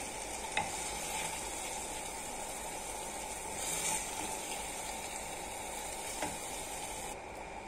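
Thick spinach gravy sizzling steadily in the hot pan while it is scooped out with a wooden spoon, with a few soft spoon knocks.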